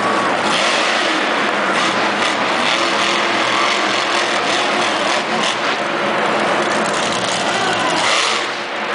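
Monster truck engine running loud and hard, a steady dense engine noise that dips briefly near the end.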